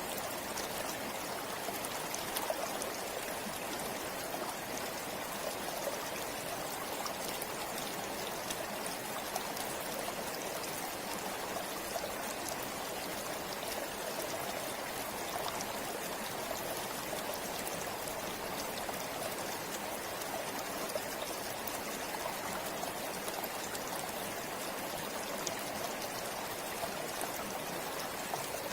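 River water flowing and splashing over rocks: a steady rushing with fine trickles and droplet ticks, no change in level throughout.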